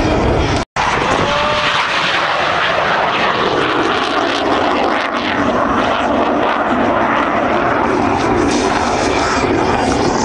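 Loud, steady engine noise of display aircraft flying, with a brief total dropout in the sound just under a second in.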